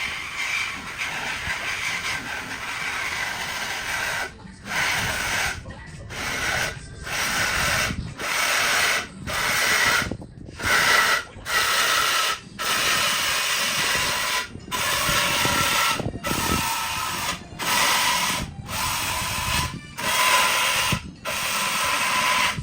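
Shop tools working on a car's exhaust for a mid muffler delete: hissing, rattling mechanical noise in runs of about a second, broken again and again by short breaks.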